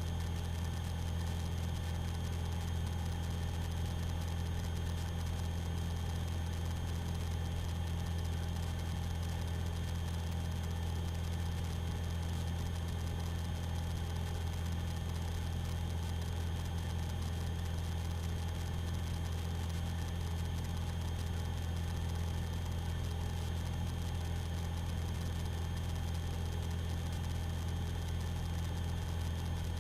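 Steady, unchanging drone of a light aerobatic aircraft's engine and propeller in level cruise, heard through the cockpit intercom.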